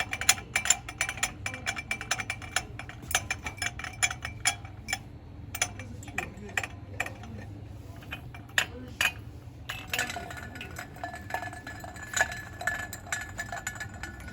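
Fast ASMR tapping and clinking on hard objects, quick sharp taps with a faint ringing tone. About ten seconds in it turns to a continuous scratching and rubbing.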